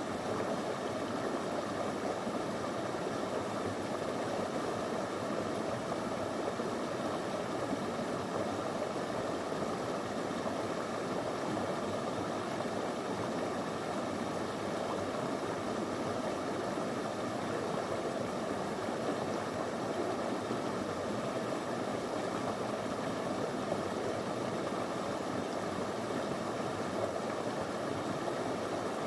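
Small river flowing over stones: a steady, unbroken rush of water.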